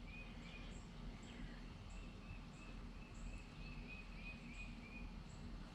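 Faint background ambience of short high chirps repeating two or three times a second over a low steady hum.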